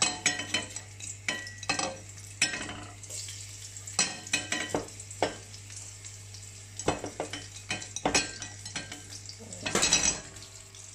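Sliced shallots frying in hot oil in a wok, sizzling with irregular crackles and spatters. There is a denser burst of crackling near the end.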